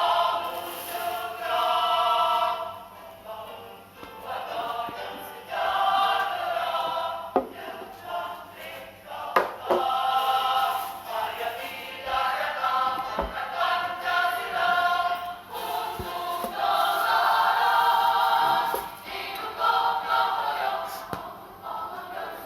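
A group of voices singing together in chorus, in phrases of a few seconds each, with a few sharp clicks between them.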